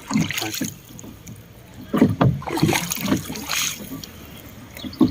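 Oars dipping and pulling through the water of a small rowing boat, a handful of uneven splashing strokes.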